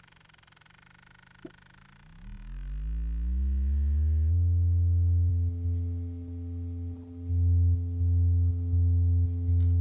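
A machine's motor drone: its pitch has just fallen to near silence, rises again about two seconds in, and settles into a steady low hum a little after four seconds, with brief dips in level near the end.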